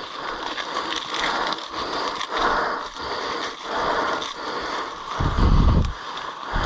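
Footsteps brushing and scraping through wet vegetation at a walking pace, a soft swell of rustle with each step. A heavy low rumble, like wind or handling on the microphone, comes about five seconds in.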